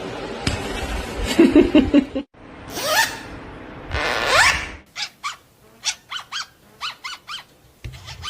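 Parrot mimicking sounds: two rising whistle-like glides, then a run of about ten short, sharp bark-like calls.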